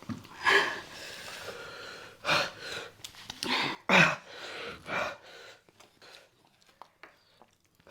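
A person breathing hard in sharp bursts, with about five loud gasps and sniffs in the first five seconds before it goes quieter: reacting to the chilli burn of extra-spicy noodles.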